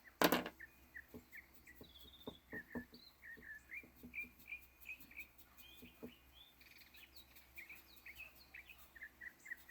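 Small backyard birds chirping, with many short repeated chirps throughout. There is a sharp click just after the start and a few faint taps.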